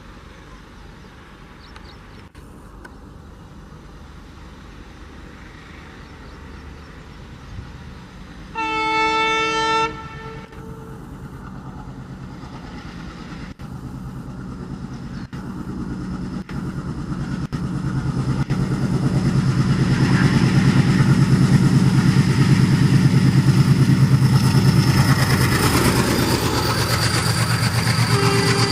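A diesel locomotive sounds its horn once for about a second, then the locomotive's engine grows steadily louder as the train approaches and passes close by.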